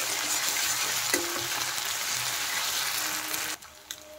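Chopped onion with ginger and garlic paste sizzling in hot oil in a metal karahi, stirred with a metal spatula, with a small knock about a second in. The sizzle cuts off sharply about three and a half seconds in.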